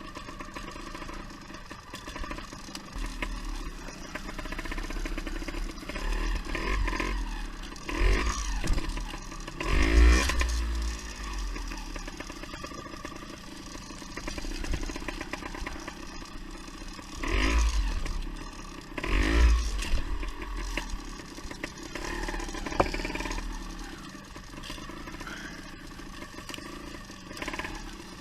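Beta Synt trials bike's two-stroke engine idling, blipped briefly about four times with smaller throttle rises between, over a steady rattle.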